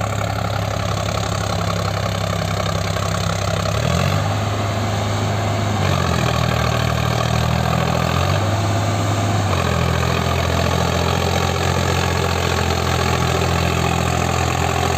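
Tractor diesel engine running, its speed stepping up and down several times a few seconds in, then holding steady.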